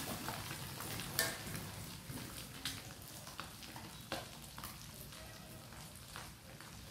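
Boiled quail eggs frying in a pan: a steady sizzle broken by crackling pops, the loudest about a second in.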